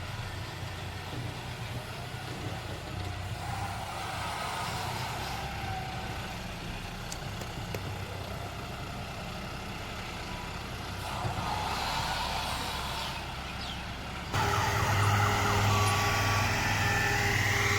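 Tractor engine running steadily under a bull loader. Near the end the sound jumps suddenly louder, with a heavier low hum and a few short steady tones above it.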